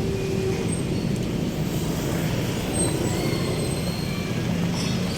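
Steady city road traffic: a continuous low rumble of passing vehicles, with faint brief high squeals over it.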